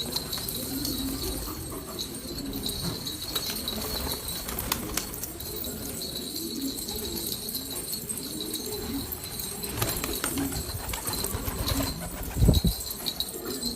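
Domestic pigeons cooing over and over, with wing flaps and a short loud thump near the end.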